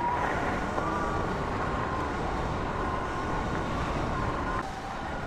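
Sur-Ron electric dirt bike's motor whining under throttle, over a rumble of tyre and wind noise. The whine wavers slightly in pitch and eases off about four and a half seconds in.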